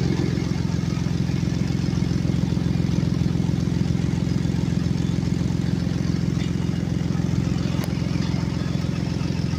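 2016 Ford Explorer engine idling steadily, listened to for an exhaust leak the customer has reported.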